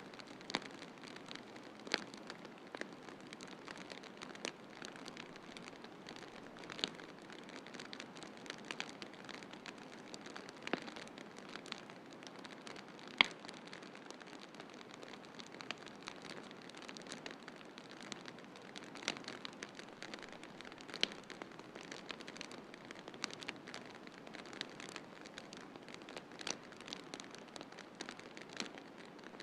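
Wood fire crackling, with irregular sharp snaps and pops over a steady hiss; one louder pop about 13 seconds in.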